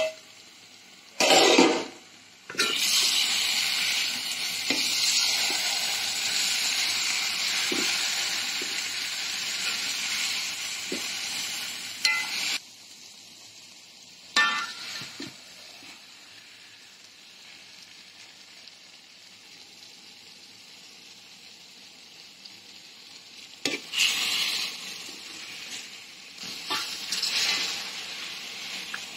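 Chicken curry sizzling in a metal pan, after a short clatter of the metal lid about a second in. The sizzle is loud for about ten seconds, then drops to a fainter hiss. Near the end a metal spoon stirs and scrapes through the thick gravy.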